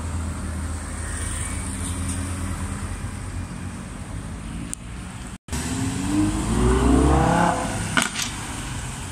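Sports car engines: a low steady rumble as a car pulls away, then after a brief dropout about five seconds in, an engine accelerating with its note rising for about two seconds. Two sharp cracks follow about a second before the end.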